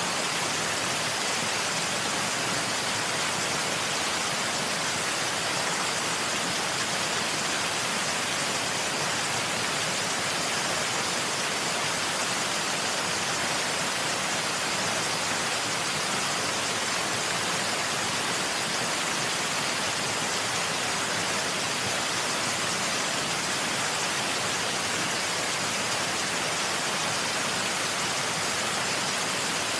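Waterfall: a steady, unbroken rush of falling water, bright and hissy with little low rumble, unchanging throughout.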